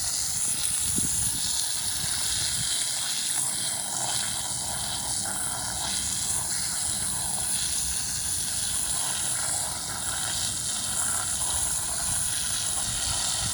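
Steady hissing noise at an even level, with no clear rhythm or impacts.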